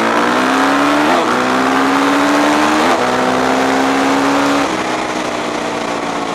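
Motorcycle engine accelerating through the gears: its pitch climbs steadily and dips at each upshift, about a second, three seconds and nearly five seconds in, then it runs on at a steadier pitch.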